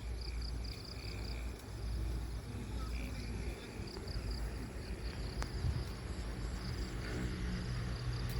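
Insects chirping in a steady pulsing trill, over a low steady rumble.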